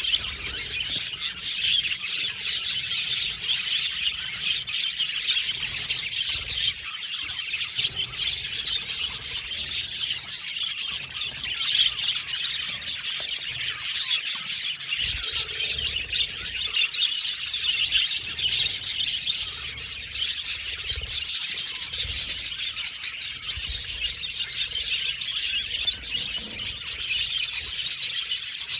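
A flock of budgerigars chirping and chattering without pause, many birds calling over one another.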